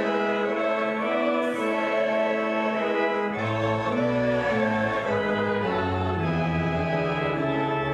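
Church organ playing slow sustained chords that change step by step, with a deep pedal bass line coming in about three and a half seconds in.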